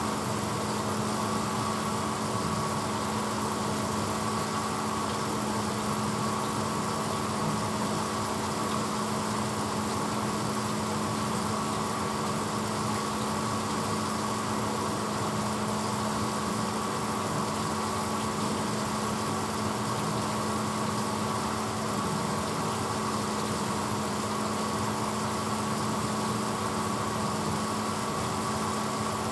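1986 Hotpoint Potwasher dishwasher running with a steady, unchanging motor hum.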